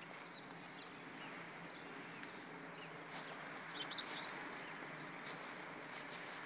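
Faint steady outdoor background noise, with a small bird chirping briefly, a few quick high chirps, about four seconds in.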